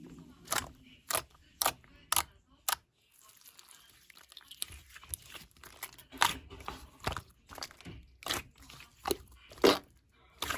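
Sky-blue iClay, a light foam modelling clay, being squeezed and pulled apart by hand: sharp crackling snaps about every half second, a quieter stretch of soft rustling in the middle, then more snaps.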